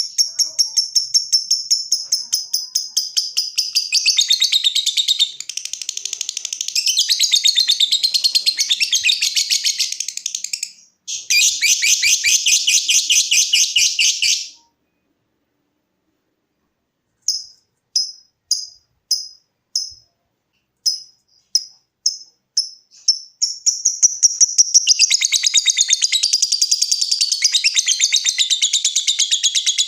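A lovebird's shrill, rapid chattering trill (the long 'ngekek' song), which cuts out about halfway through for a few seconds of dead silence. After the gap come separate sharp chirps about twice a second (the 'ngetik' ticking call), which run into another long, continuous trill.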